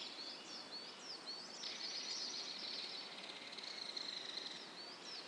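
Small birds chirping in a forest, with quick, repeated high notes throughout. From about two seconds in, a steady high trill runs under the chirps for a couple of seconds.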